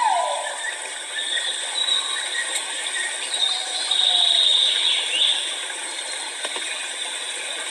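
Great argus pheasant calling: the tail of a loud two-note arched whistle ends about half a second in, and a fainter falling note follows about five seconds in, over a steady high hiss with a high buzzing tone near the middle.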